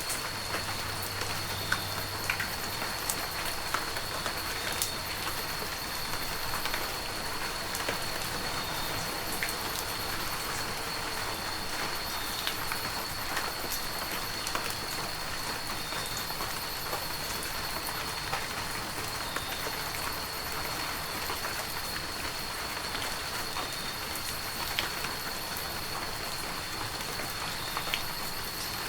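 Heavy rain falling steadily, with many single drops ticking against a dense hiss. A thin, steady high-pitched tone runs beneath it.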